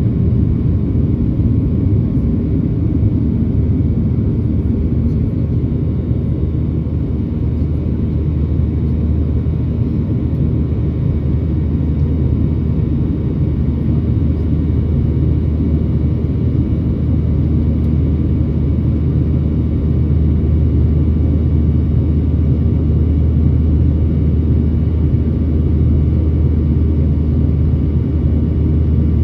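Boeing 737-800 airliner's CFM56-7B jet engines and airflow, a steady low drone and rumble of the aircraft climbing after takeoff.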